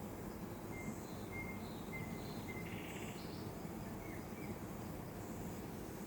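Small birds chirping in short, high notes, scattered through the first four seconds or so, over a steady low background noise.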